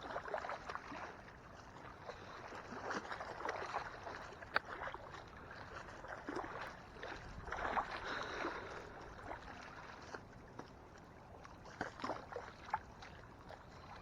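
Small waves lapping and sloshing against a boat's hull in irregular swells, with a couple of sharp ticks about four and a half seconds in and near the end.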